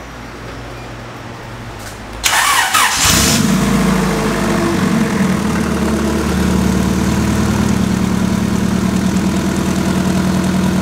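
Turbocharged Honda K20 four-cylinder engine in a Civic being started: it cranks and fires about two seconds in, then settles into a steady idle. This is the first start after a new eBay turbocharger has been installed.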